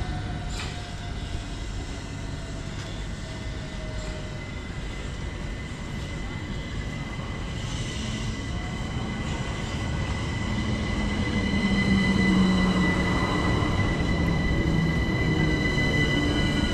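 London Overground Class 378 electric train running, with several steady high-pitched tones over the rail noise; it grows louder from about halfway through.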